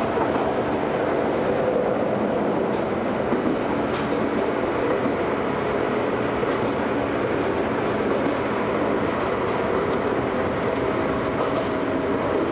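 Steady running noise of an Ohmi Railway electric train heard from inside the car as it travels along single track, with a few faint clicks.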